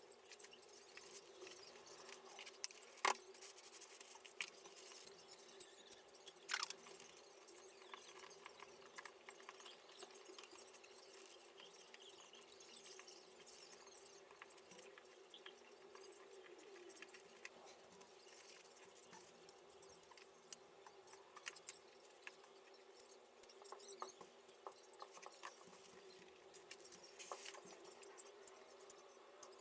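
Faint scratching and rustling of small handling noises, with two sharp clicks in the first seven seconds, over a steady faint hum.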